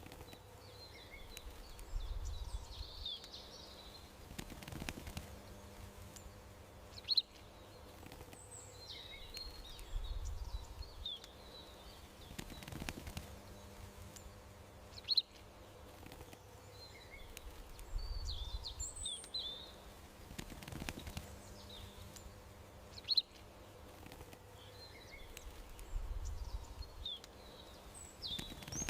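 Small birds chirping and calling, with one sharp, high chirp standing out in each stretch; the same few seconds of birdsong and faint low rumble repeat about every eight seconds, as a looped ambience track.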